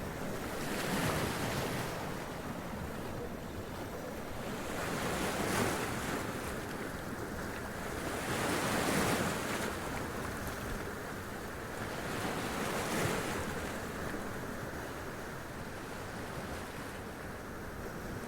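Sea waves washing up over rocks and splashing, a steady surf rush that swells with each wave, about four waves in the span.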